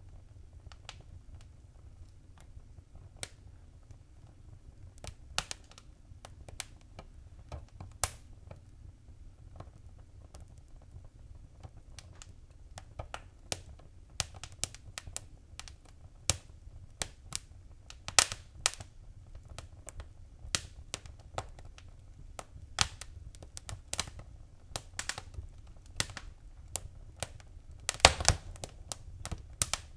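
Fire in a fireplace crackling: irregular sharp pops and snaps over a low rumble. The pops grow busier about halfway through, with a quick cluster of loud pops near the end.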